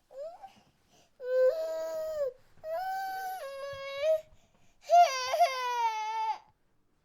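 Baby crying: a short whimper, then three long wailing cries with breaths between them.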